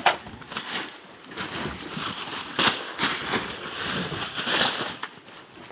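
Irregular sharp cracks and pops over a steady rushing noise.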